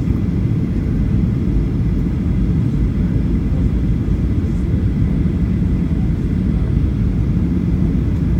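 Steady low rumble of a Boeing 737-800's cabin noise, from its CFM56 engines and the air rushing past, heard from inside the passenger cabin.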